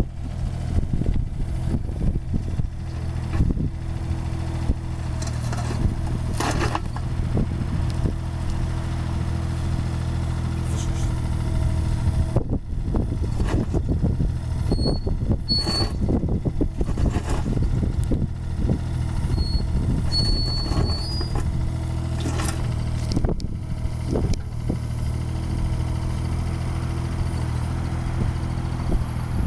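Cat mini excavator's diesel engine running steadily, with frequent knocks and clanks and a few brief high squeaks.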